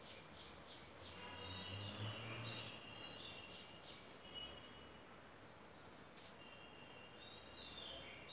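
Faint outdoor birdsong: short chirps with a quick falling whistle about a second and a half in and again near the end, over a faint low hum that swells briefly around two seconds in.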